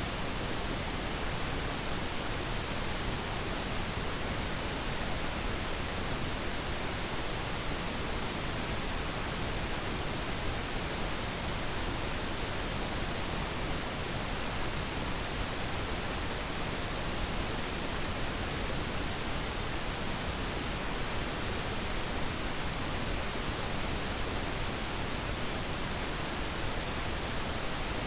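Steady synthetic pink noise: an even, unchanging hiss spread across all pitches, with no other sounds.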